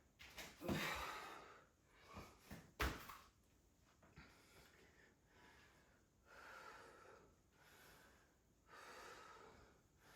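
A woman breathing hard through a set of burpees: heavy, airy breaths about a second long, coming more regularly in the second half. A sharp thump about three seconds in.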